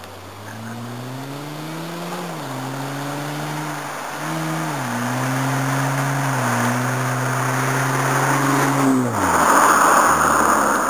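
Acura TL V6 through a Greddy EVO II exhaust with no resonator, accelerating: the engine note climbs and drops quickly twice, as at gear changes, then holds a steadier pitch. Near the end the note falls away sharply and a loud rush of noise follows.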